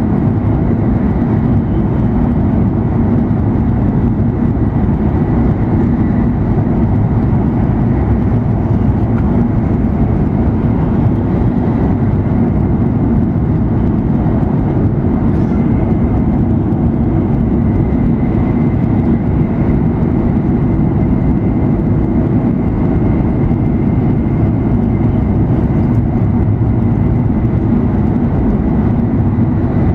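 Cabin running noise of an E7 series Shinkansen travelling at high speed: a steady, even low rumble with a faint steady high tone above it.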